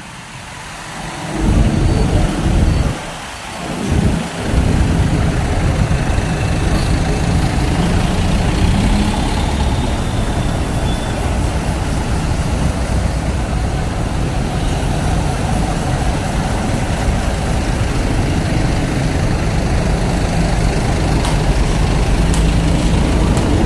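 Motor vehicle noise: a steady low rumble of road traffic or a large engine close by, starting about a second and a half in after a brief lull.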